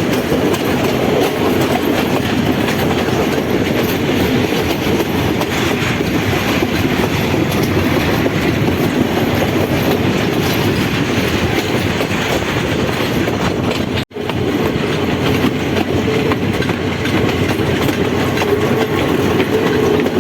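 Passenger train running, heard from aboard: a steady rumble with wheels clattering over the rail joints. The sound cuts out for an instant about two-thirds of the way through, then carries on.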